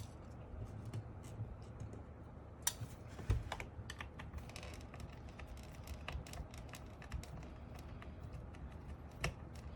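Faint, irregular clicks and ticks of a screwdriver and small hard plastic and metal parts as screws are taken out of a mechanical keyboard's case, with a few sharper clicks scattered through.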